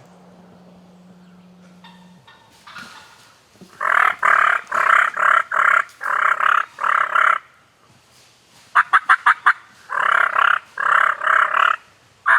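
Wild turkey toms gobbling at close range: several loud, rapid rolling gobbles, one after another, starting about four seconds in, a short pause, then another run near the end.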